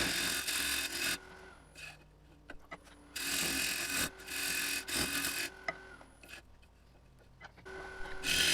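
Wood lathe spinning while a turning tool cuts the wood in several short passes: a scraping hiss on each pass, with the lathe's steady hum between. The opening is being brought up to size, a little at a time, for a set of female threads.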